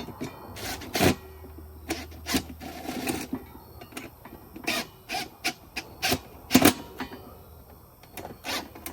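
Irregular knocks, clicks and scraping of tools and metal parts being handled and fitted, with a faint low hum for a couple of seconds early in the sequence.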